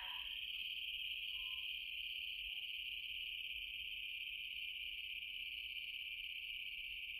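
Insects trilling in a steady, unbroken high drone.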